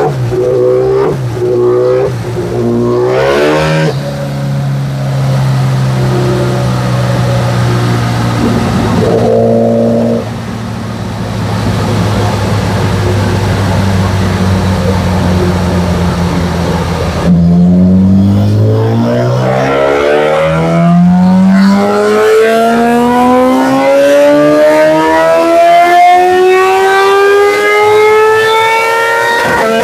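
2013 Kawasaki ZX-10R's inline-four engine through a full Graves exhaust on a motorcycle dyno. It gives a few quick revs, then runs steadily for about ten seconds. From about two-thirds of the way in it climbs through a few short rises, then begins a long wide-open-throttle pull, its pitch rising steadily to the end.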